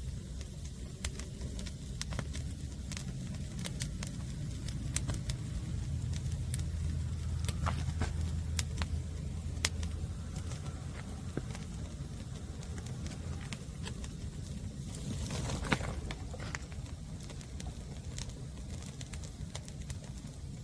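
Green firewood burning, with scattered sharp pops and crackles over a steady low rumble, and a brief louder rush of noise about fifteen seconds in.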